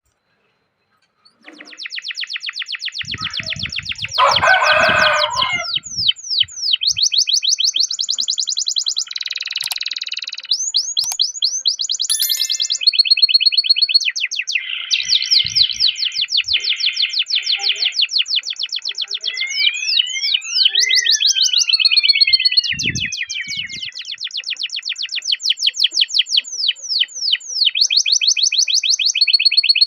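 Domestic canary singing a long rolling song: fast trills of rapidly repeated notes that switch from one tour to the next every second or two, with a run of falling whistled sweeps about two-thirds of the way in. The song starts about a second and a half in.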